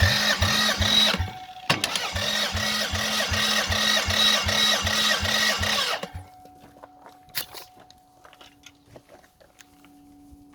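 Toyota 1MZ 3.0-litre V6 being turned over by its starter in two bursts of rhythmic cranking, a short one and then one of about four seconds. It stops abruptly without the engine catching.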